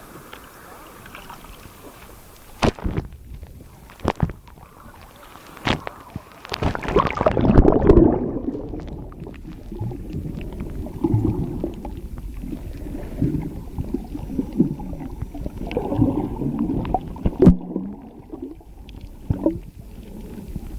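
A few sharp knocks, then a loud rush of water about seven seconds in, after which the sound turns muffled, with low gurgling, bubbling and small knocks: water heard with the microphone under the sea.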